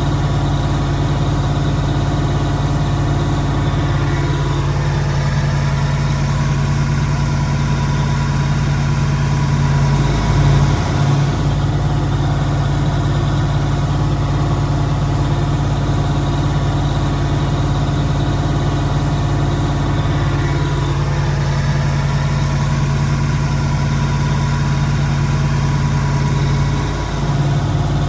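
Massey Ferguson V8 tractor engine running steadily, its note dipping briefly near the end.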